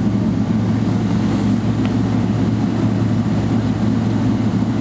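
Steady low drone inside the cabin of a Boeing 777-300ER on the ground before takeoff, an even hum with no changes.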